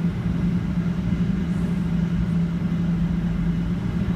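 Steady low hum of a Boeing 737-800's cabin, with a constant droning tone over a low rumble.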